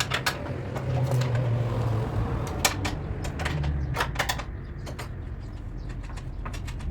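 Irregular sharp clicks and knocks of hand work on metal, several in quick pairs, over a low steady hum.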